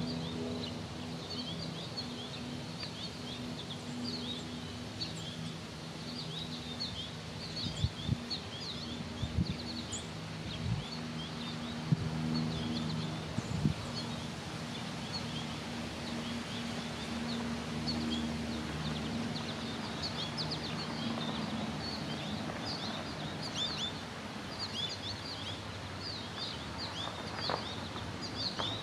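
Small birds chirping in many short, high, irregular notes, over a low steady hum. A few brief soft knocks come in the first half.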